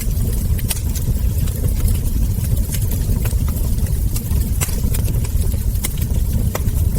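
Wood fire crackling: scattered sharp pops and snaps of burning logs and embers over a steady low rumble.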